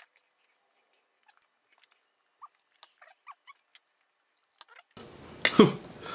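Eating sounds close to the mic: faint chewing, mouth clicks and a few small wet squeaks over near silence. About five seconds in, room noise comes back with a couple of sharp clicks.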